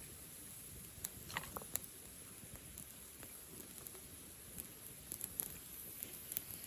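Wood bonfire burning, with irregular sharp pops and crackles from the burning wood over a low, steady rustle of flame and a faint high hiss.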